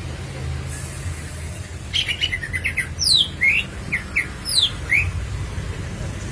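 Cucak ijo (green leafbird) singing a fast burst of varied chirps and quick sweeping whistled notes, starting about two seconds in and lasting some three seconds, over a low steady hum.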